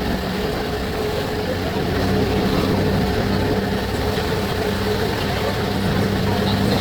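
Passenger ferry's engines droning steadily with a low hum, under a broad steady rush of wind and water noise.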